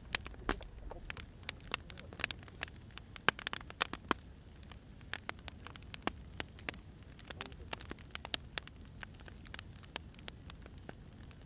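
Wood fire crackling: irregular sharp pops and snaps of burning firewood, several a second, over a low steady rumble.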